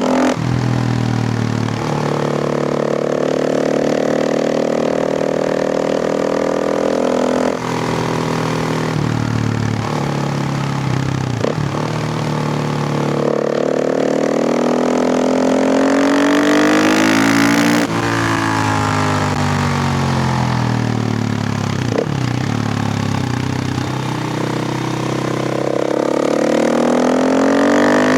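KTM EXC 450's single-cylinder four-stroke engine under way: revs held steady for several seconds, then climbing, dropping sharply as the throttle shuts, and climbing again near the end.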